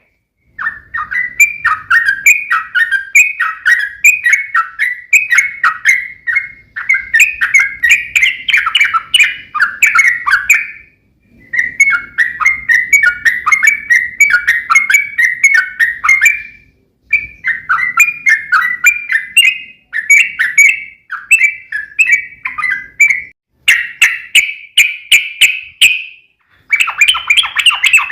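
Yellow-vented bulbul (trucukan) singing its long chattering song: loud, rapid runs of short notes lasting several seconds each, broken by brief pauses.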